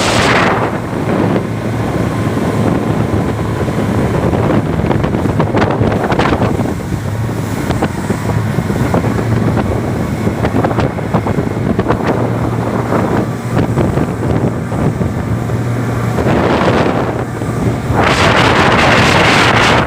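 Jet boat's engine running steadily with a low hum, under heavy wind on the microphone and rushing water, the rushing loudest for the last two seconds.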